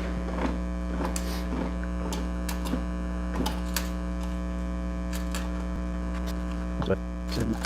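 Steady electrical mains hum, with scattered light clicks and knocks from handling.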